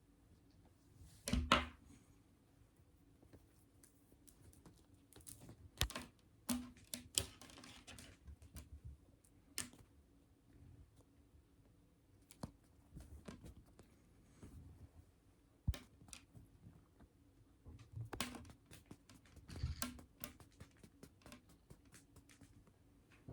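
Cats scuffling on a hard floor: scattered light clicks and taps of claws and paws, with a few louder thumps and scuffles.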